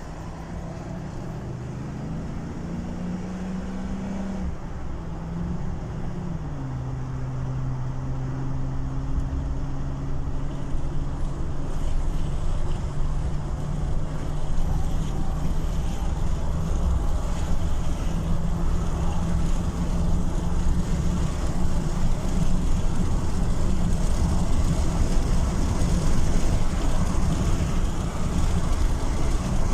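Chevrolet Avalanche V8 pulling under acceleration, its engine note climbing and then dropping in two steps about five and seven seconds in as the automatic transmission shifts up, late, which the owner reports as a delayed-shift fault. Afterwards the engine holds a steady note while road noise slowly builds.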